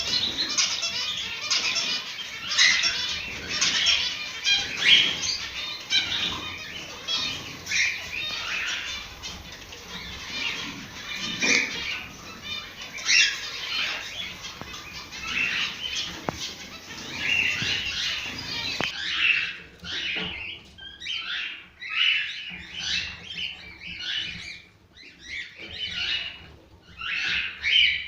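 A flock of cockatiels chirping and chattering, many short high calls overlapping. About two-thirds of the way in the recording changes and the chirps come more spaced out, one after another.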